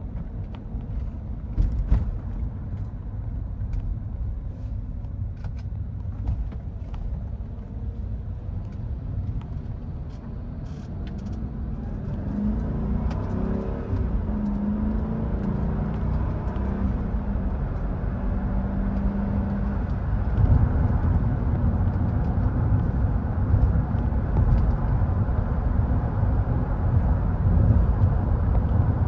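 2000 Mercedes-Benz E430's 4.3-litre V8 and road rumble while driving, with a few light clicks in the first several seconds. Partway through, the engine note rises and falls for several seconds, then the rumble grows louder.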